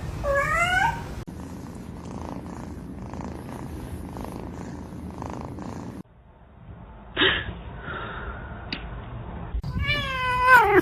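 A domestic cat meows once with a rising pitch, then purrs steadily for a few seconds. A short knock comes about seven seconds in, and near the end a cat gives another, louder meow.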